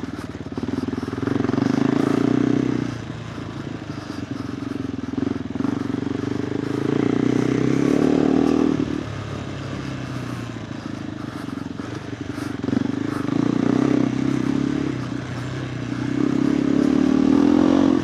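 KTM 390 Adventure R's single-cylinder engine through a Norifumi Whoops slip-on exhaust, ridden off-road. The note rises and falls with the throttle, in four louder surges with easier stretches between.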